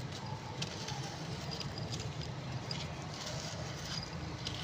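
Faint, scattered crackling and ticking of a red brick dust block being crumbled by hand, over a steady low background hum.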